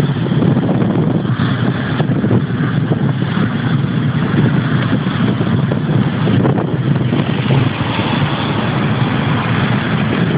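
Jet airliner engines running with a loud, steady rumble and roar.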